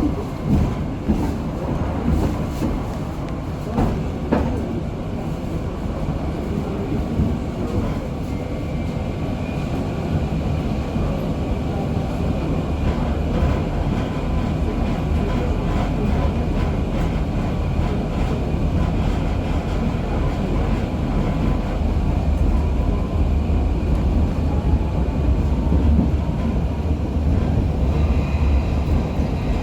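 KTM-23 (71-623) tram running along the track: steady rumble of wheels on rails, with a few knocks over the rails early on and a faint electric drive whine that rises slightly as it picks up speed.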